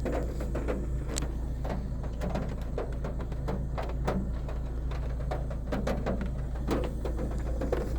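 Car engine idling steadily while being warmed up from cold, with irregular sharp ticks of raindrops hitting close by.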